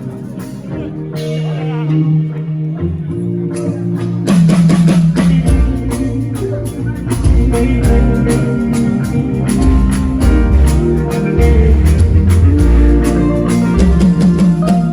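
Live band playing an instrumental passage: guitar alone at first, then about four seconds in the drum kit and bass come in and the full band plays on.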